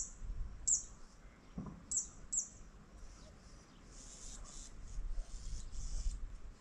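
Wetland birds calling: several short, sharp, high falling notes in the first half, then a few seconds of buzzy, high chirring, over a steady low rumble.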